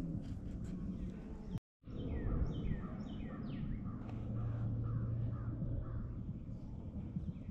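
A bird calling outdoors: a run of short calls that fall in pitch, about two a second, after a brief cut to silence near the start, over a steady low outdoor rumble.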